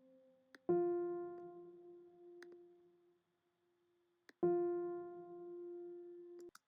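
Software piano playing one note, twice, from MIDI: each note rings and dies away, and the second is cut off short near the end. Faint clicks come just before each note.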